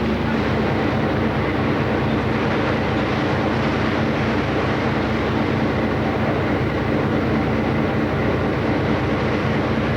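Steady drone of a passenger motor ship's engine underway, with a constant rush of wind and water noise over it.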